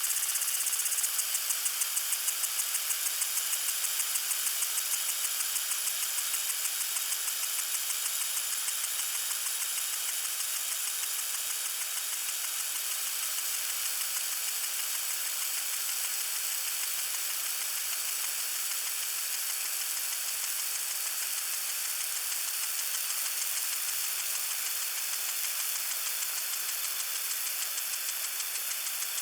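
Lawn sprinkler spraying water: a steady high hiss of spray with a rapid, even ticking, clearest in the first several seconds.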